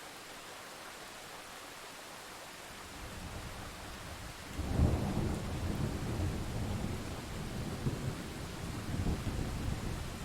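Thunder over steady rain: a low rumble builds about three seconds in, breaks into a loud crack a little before five seconds, then rolls on in swells and fades near the end.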